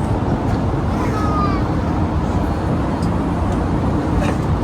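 Steady low rumble of cabin noise inside a Boeing 787-8 Dreamliner in flight, with a few faint clicks.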